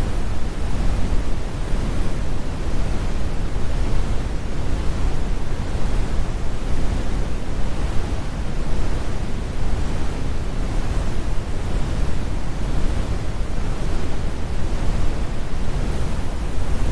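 Synthetic brown noise: a steady, deep rumbling hiss, strongest in the lows and with the highs rolled off.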